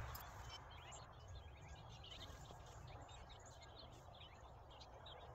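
Faint birds chirping, many short calls overlapping, over a quiet steady low rumble of background noise.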